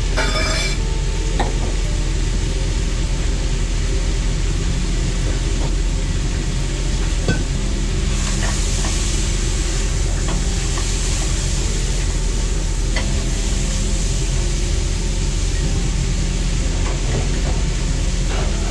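Steady low mechanical hum, with light clicks and clinks here and there and a soft hiss about eight to twelve seconds in.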